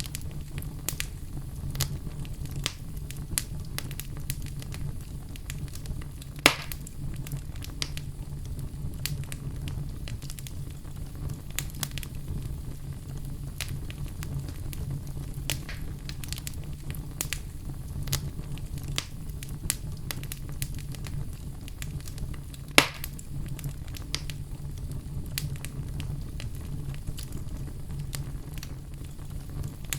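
Wood fire crackling with a steady low rumble beneath and scattered small crackles. Two louder pops come about six seconds in and again near twenty-three seconds.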